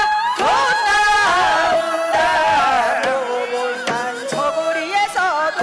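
Korean shamanic ritual music: a sustained, wavering melody of long held notes that bend in pitch, with a few drum strokes.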